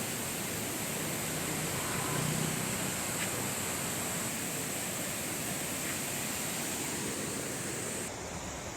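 Steady rushing noise of a waterfall in full monsoon flow. About eight seconds in, the highest part of the hiss drops away abruptly.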